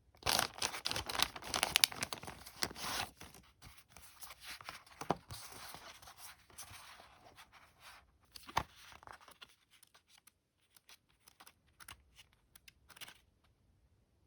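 Handling noise of tearing and rustling, loudest in the first three seconds, then thinning out into scattered light clicks and scrapes.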